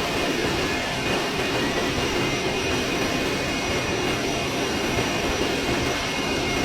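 Jet airliner noise: a steady, even rush with a faint, steady high whine over it.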